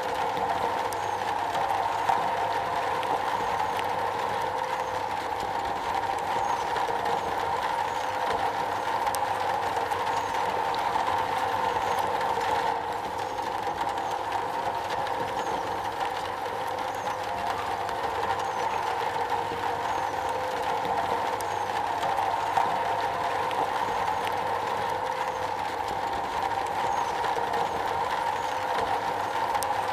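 Rain falling steadily on a metal roof: a dense, even patter of drops.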